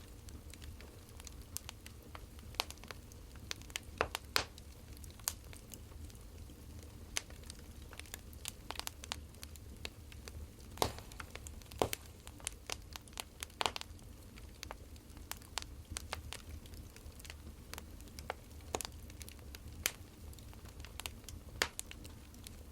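Burning firewood crackling, with irregular sharp pops and snaps at uneven intervals over a steady low hum.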